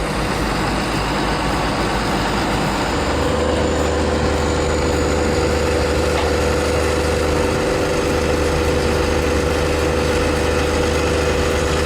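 Heavy machine's engine running steadily, a loud continuous drone; about three seconds in a steady low hum and a higher steady tone come in over it.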